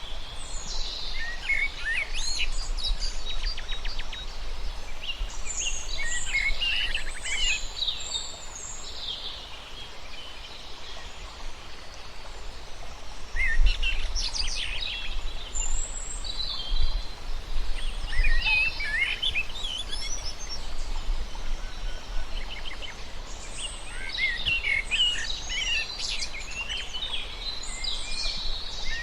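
Several birds singing and chirping in overlapping bursts of quick, high warbling notes, with a lull about a third of the way in. A steady low rumble runs underneath.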